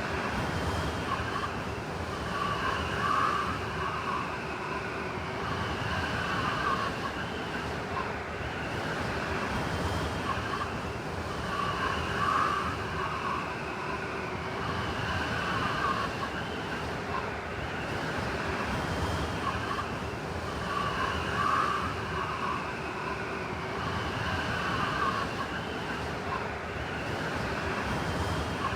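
Blizzard wind blowing steadily, a continuous rush with a wavering, siren-like howl that swells and fades every few seconds.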